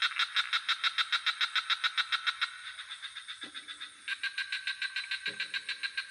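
Night frog chorus: a fast pulsing call at about eight pulses a second, which eases off partway through and starts up again. Two deeper single croaks come in the middle, over a steady high insect drone.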